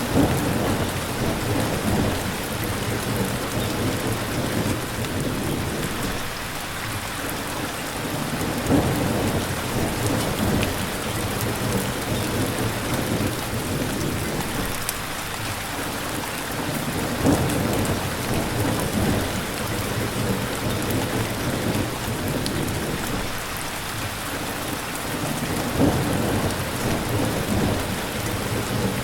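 Steady rain falling, with low rumbles of thunder swelling up four times, about every eight or nine seconds.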